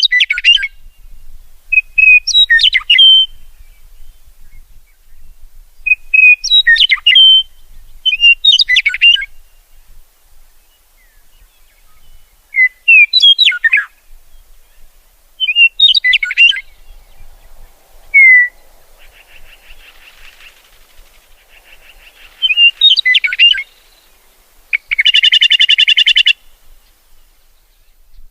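Bird song: short, bright chirping phrases repeated every two to three seconds, with a long harsh buzzy call near the end.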